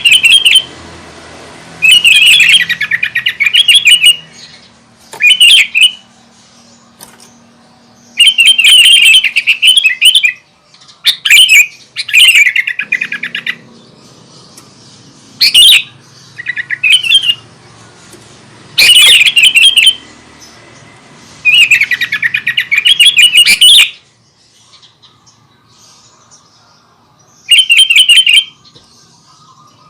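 Sooty-headed bulbul (kutilang) in full vigorous song, with loud bursts of rapid chattering, warbled phrases. Some bursts are short and some run about two seconds, with pauses of a second or more between them and a longer pause near the end.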